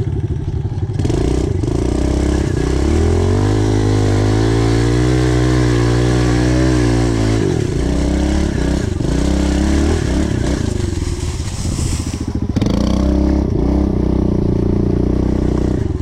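Pit bike engine revved hard and held high for about four seconds, then dropping and blipped up and down as the rider works the bike over an obstacle on wet leaves.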